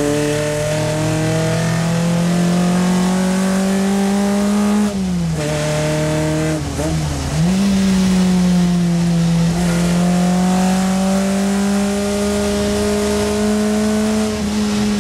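Triumph Spitfire Mk3's 1296 cc four-cylinder engine at racing speed, heard from inside the cabin. It pulls in gear with the pitch climbing slowly, falls away sharply about five seconds in and dips once more soon after, then climbs back and holds a high, steady note.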